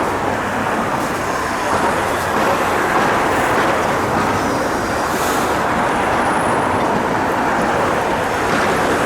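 Steady, dense traffic noise of a busy city street.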